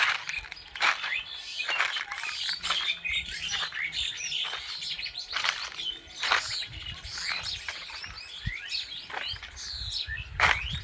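Several forest birds chirping and calling at once: many short, sharp notes that sweep quickly in pitch and overlap, with a low rumble underneath near the end.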